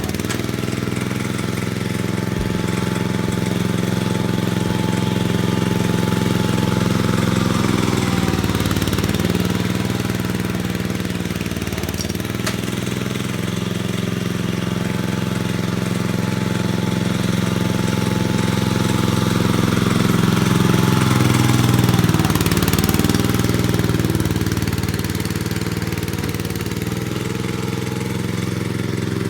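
Gravely tractor engine running steadily while working in snow, its pitch sagging briefly about 8, 12 and 22 seconds in as it takes on load, then picking back up.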